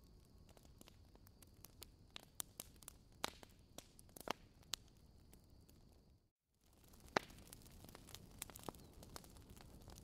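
Faint crackling fire: scattered sharp pops and snaps over a soft hiss. The sound cuts out for a split second about six seconds in.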